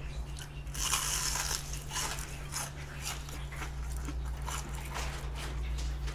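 Crisp bite into a deep-fried battered shrimp, with one loud crunch about a second in, then repeated crunching as the fried shrimp is chewed.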